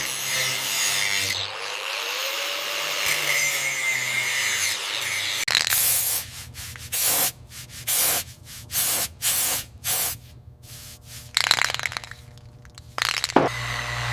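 Abrasive rubbing or sanding, a steady rasping for about five seconds, then a series of short separate strokes with quiet gaps between them, over a faint low hum.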